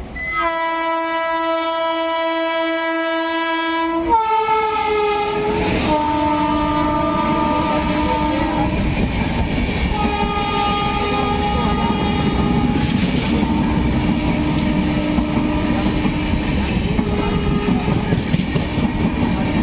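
Indian Railways express train passing at speed with its horn sounding: one long horn blast whose pitch drops sharply about four seconds in as the locomotive goes by, then the loud rumble and clickety-clack of the coaches, with the horn sounding again several more times.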